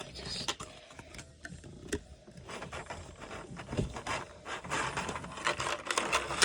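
Plastic packaging rustling and crinkling with many small clicks and scrapes as an action figure is handled and pulled out of it, busier and louder in the second half.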